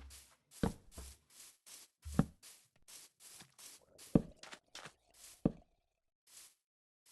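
Four dull knocks, one to two seconds apart, over a regular run of short crunching rustles about three a second that thin out near the end.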